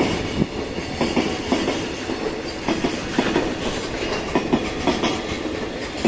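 Freight train hauled by an EF210 electric locomotive rolling past, its wheels clacking over rail joints in a steady run of clicks above a continuous rolling rumble.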